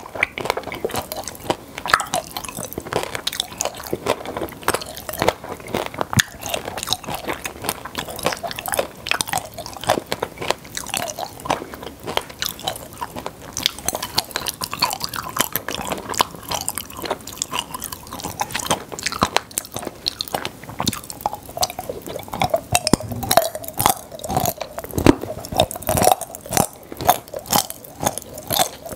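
Close-miked chewing of popping-candy chocolate: wet chewing with a dense, rapid crackle of tiny pops as the candy bursts in the mouth, growing busier near the end.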